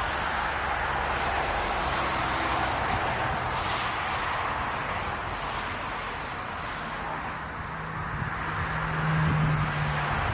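Jet airliner engines running steadily, with a low hum that swells about seven seconds in. Gusty wind buffets the microphone.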